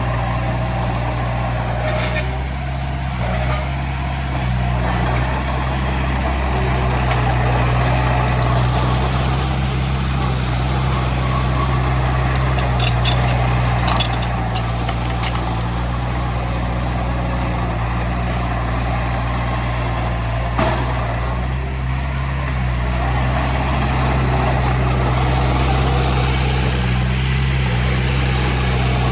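Heavy diesel earthmoving machinery running steadily at working load, a continuous low engine hum, with a few brief metallic clanks partway through.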